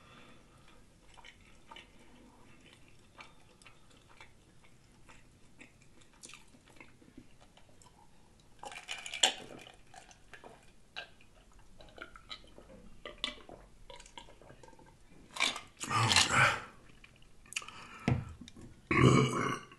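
Close-miked chewing and mouth smacking as a chicken tender slider is eaten, with soft clicks at first. About nine seconds in come louder gulps of soda from a glass, and near the end a loud burp.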